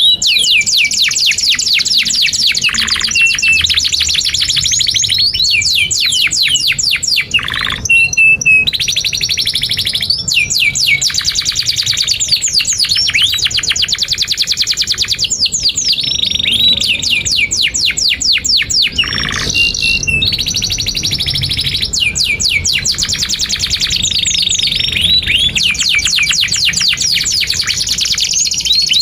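Canary (kenari) singing a long, continuous song of rapid high trills and chirps, with fast repeated notes and short whistled glides, broken only by a couple of brief pauses.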